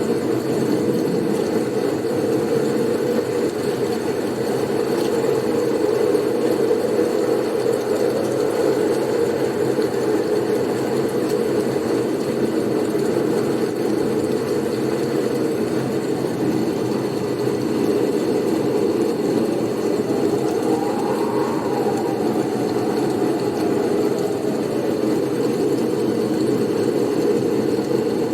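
Blizzard wind: a steady low rushing noise, with a faint whistle that rises and falls again about two-thirds of the way through.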